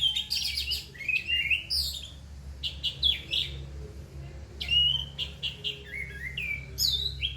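Orange-headed thrush singing a dense, rapid-fire song: quick varied chirps and whistled phrases following one another with only short gaps, with harsh, coarse notes mixed in.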